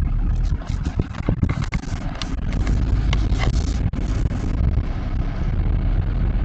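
Steady low rumble of a car heard inside the cabin, with a scatter of sharp clicks and knocks over the first four seconds or so.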